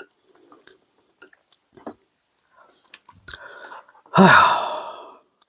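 A man's loud, breathy sigh about four seconds in, fading over about a second, after a few faint clicks of eating.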